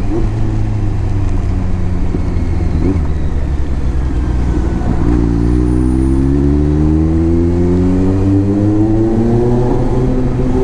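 Kawasaki Z900's inline-four engine, heard from the rider's helmet mic, running steadily and then accelerating hard from about halfway in, its pitch climbing smoothly through the revs.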